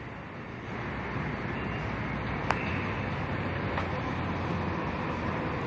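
Kawasaki M8 electric multiple-unit train approaching in the distance: a steady low rumble with a faint hum, and one sharp click about two and a half seconds in.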